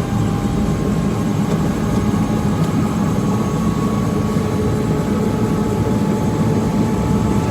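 Helicopter turbine and rotor running steadily: a loud low rumble with a steady high whine.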